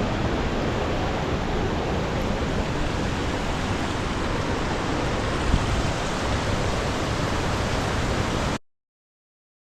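Steady rush of the Linville River running over boulders, cutting off suddenly near the end.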